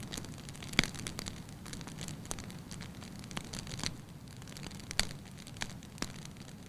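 Wood fire burning in a fireplace: a steady low rumble of flames with irregular sharp crackles and pops, the loudest about a second in and again about five seconds in.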